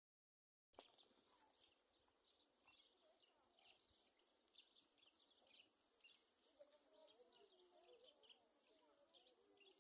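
Faint outdoor ambience that begins just under a second in: a steady, high insect drone with many short bird chirps over it.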